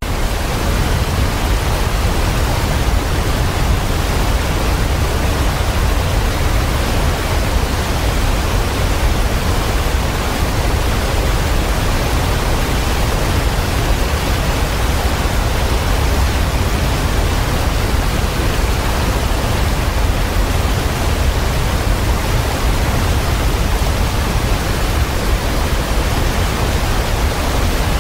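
Waterfall pouring steadily: a constant loud rush of water with a heavy low rumble, which cuts in suddenly at the start.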